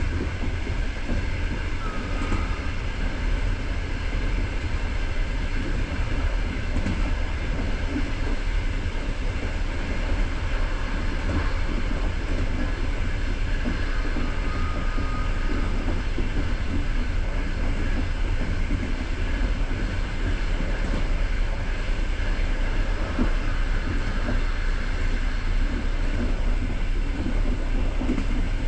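Passenger train running along the track, heard from aboard a coach: a steady rumble of wheels on rails with a faint high tone for about a second midway.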